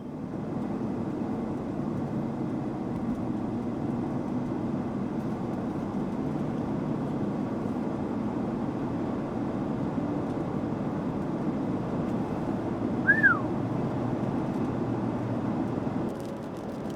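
Vehicle running with a steady low rumble of road and engine noise. A single short high chirp comes about two-thirds of the way in. Near the end the rumble drops and scattered sharp ticks begin, the first hailstones hitting the vehicle.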